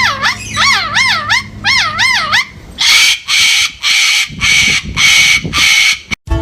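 Bird calls: a quickly wavering whistle that swoops up and down about twice a second, then about six harsh, evenly spaced screeching calls.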